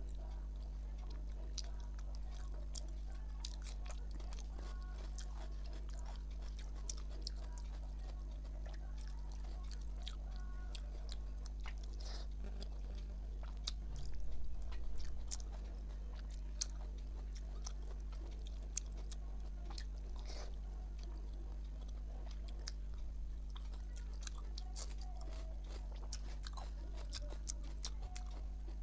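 A person eating rice and dal by hand: close chewing with many small wet mouth clicks, over a steady low hum. A louder stretch comes a little after halfway as a handful goes into the mouth.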